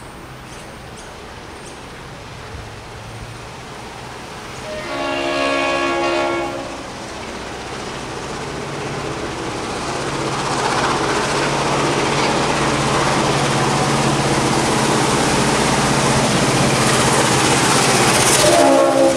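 Diesel locomotive 42103 sounding its multi-note horn for about two seconds, then its engine note and rumble growing steadily louder as the train approaches. A second horn blast starts near the end.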